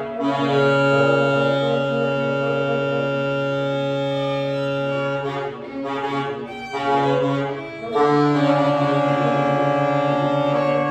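Saxophones, tenor and alto, playing free-improvised long tones together: a sustained dissonant chord, a brief break into shorter notes about halfway through, then a second held chord with a fluttering low note.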